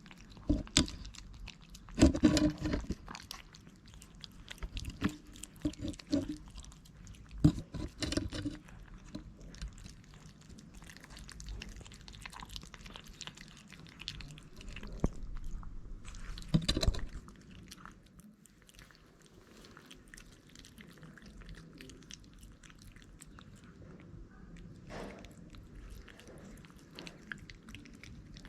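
Cats chewing and crunching food, with irregular louder crunches and clicks during the first half, then quieter.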